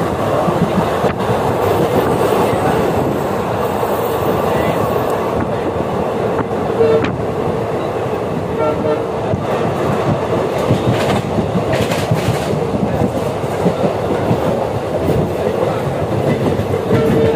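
Running noise of an express train heard from inside a passenger coach: a steady, loud rumble and rattle of wheels on the rails, with occasional knocks.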